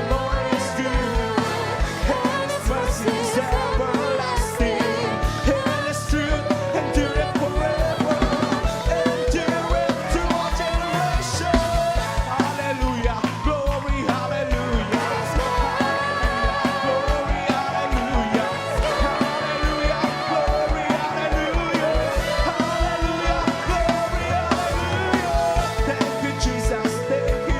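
Church choir singing a gospel song to a band accompaniment, with a drum kit keeping a steady beat.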